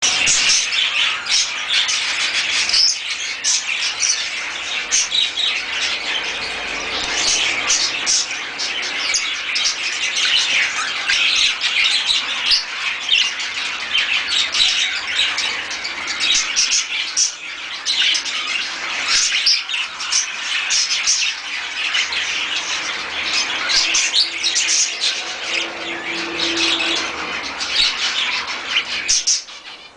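Many birds chirping and squawking at once in a dense, unbroken chorus of short high calls, dipping briefly near the end.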